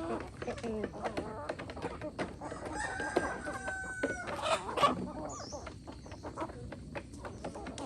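Free-range chickens clucking, with a rooster crowing once in a long held call about three seconds in.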